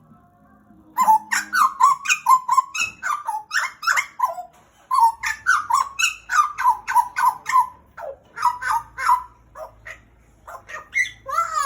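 Pied butcherbird (Cracticus nigrogularis) calling loudly: quick runs of short, ringing notes, about five a second, starting about a second in and coming in three bursts with short pauses between.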